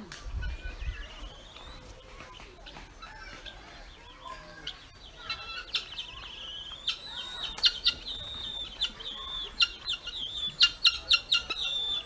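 Birds calling: a high, fast trill that starts about five seconds in, with sharp chirps coming quickly over the last few seconds.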